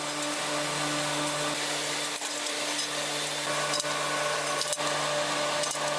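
Steady hum and hiss of running factory machinery, with a few sharp clicks scattered through it.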